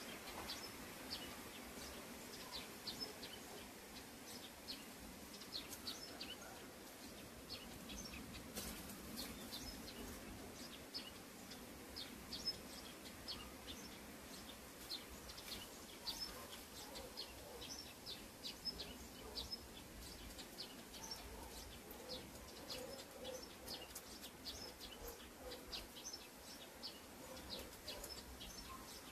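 Small birds chirping faintly, many short high chirps in quick succession.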